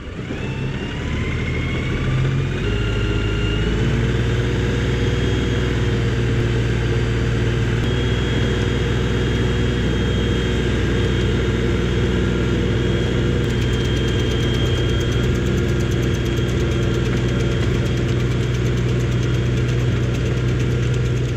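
35 hp LS XR3135 compact tractor's diesel engine running. It speeds up over the first few seconds, then holds a steady speed.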